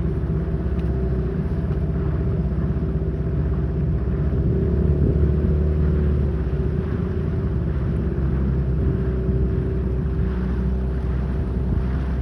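Sea Pro outboard motor running steadily at low revs while driving the boat along on its first break-in run. It swells a little about five seconds in.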